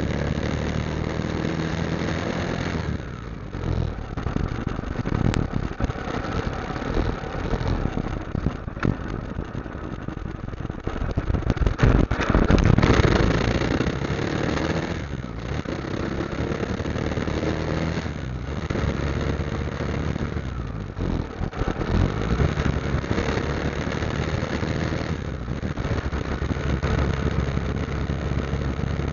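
Motorcycle engine running while riding, its note dipping briefly several times. There is a louder rushing stretch about twelve seconds in.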